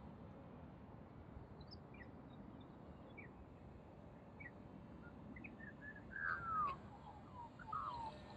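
Birds calling outdoors: short scattered chirps, then louder warbling, gliding calls about six seconds in and again near the end, over a steady low background hiss.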